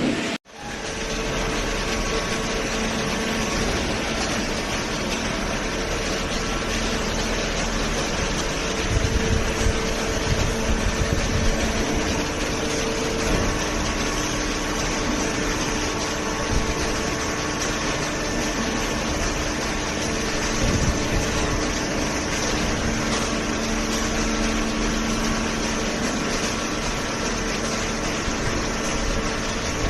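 Hydraulic baler running: a steady mechanical hum with a faint droning tone from the pump motor. A few low thumps come about a third of the way in, and the sound cuts out briefly just after the start.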